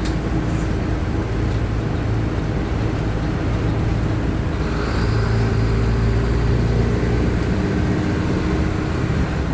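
Mercedes-Benz OF-1519 BlueTec 5 bus's diesel engine running steadily, growing louder about five seconds in as it pulls harder.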